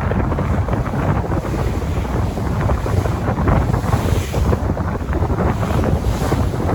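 Sea waves washing on the shore, with wind buffeting the microphone: a steady noise with a strong low rumble.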